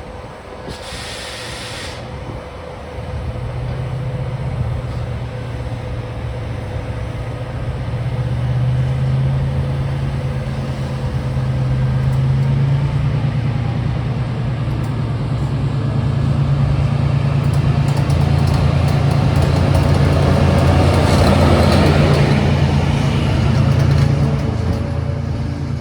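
Diesel locomotive's engine running and pulling away, growing steadily louder as it comes closer and loudest a few seconds before the end, after a short hiss about a second in.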